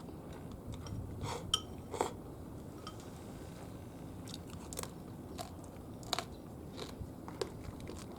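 A person chewing scorched rice, with scattered short crunches and clicks.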